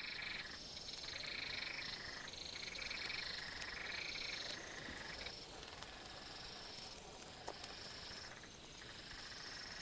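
A chorus of frogs calling in the wet rainforest: repeated high calls of about half a second to a second each, several callers overlapping and alternating, with a faint steady background and a couple of small clicks about three quarters of the way through.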